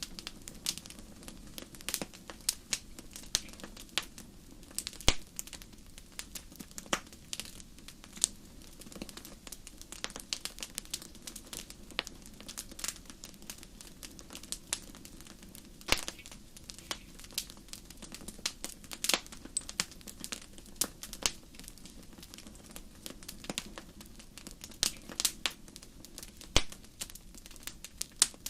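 Wood fire burning in a fireplace, crackling: irregular sharp pops and snaps, a few a second, over a low steady hiss of the flames.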